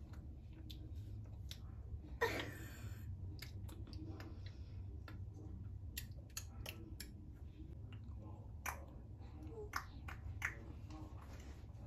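Faint scattered clicks and small handling noises over a steady low hum, with one brief louder rustle about two seconds in.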